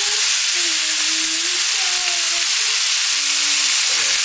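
Chicken thigh pieces sizzling hard in hot oil in a wok, stirred with a wooden spatula, with onion tipped in near the end. A few faint held tones, changing pitch every second or so, sit under the sizzle.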